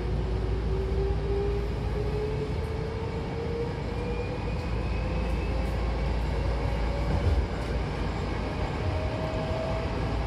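Hankyu Kobe Line electric train heard from inside the car: a steady running rumble, with a motor whine rising slowly in pitch as the train gathers speed.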